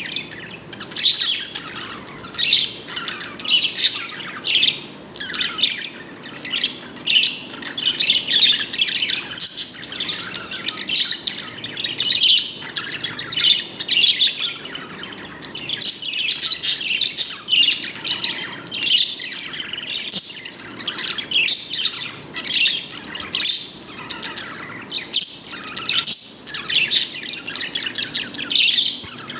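Pet bird chirping and tweeting in quick, continuous runs of short high notes with a few squawks, the contented chatter its owner calls a happy sound.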